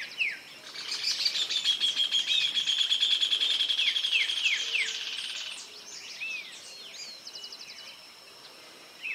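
Outdoor birdsong: a series of short, quick downward-sliding whistled notes, then a loud, rapid trill that starts about a second in and fades after about five seconds, with a few scattered notes afterwards.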